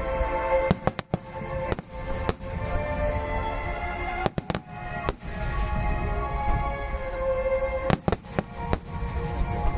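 Fireworks bursting over music from the show's sound system: sharp bangs come every second or so, with a quick cluster of bangs near the middle and another near the end, over a sustained, held melody.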